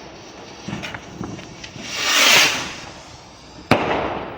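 Fireworks going off: a few small pops, then a hiss that swells and fades about two seconds in, and one sharp bang near the end.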